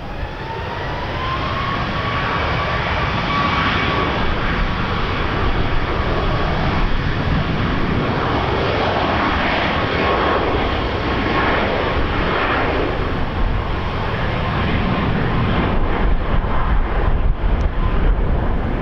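Airliner's engines running loud as the aircraft passes close by: a steady rush with a whine that rises at the start and then holds. Wind buffets the microphone with a low rumble, strongest near the end.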